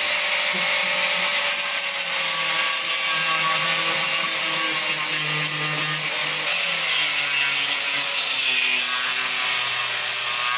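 Power tool running continuously and cutting. Its motor spins up at the start, then its pitch shifts as the load changes, under a loud, even cutting noise.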